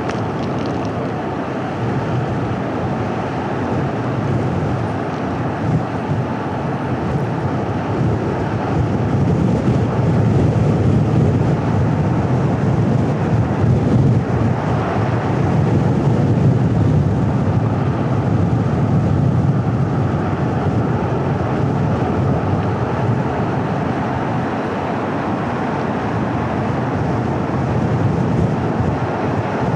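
A car driving at steady speed: a constant rush of tyre and road noise with the engine's low hum, growing a little louder around the middle.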